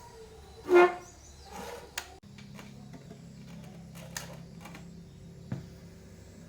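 Loudspeaker under repair sounding a brief, loud honk-like tone, then a steady low electrical hum with a few sharp pops, about two, four and five and a half seconds in.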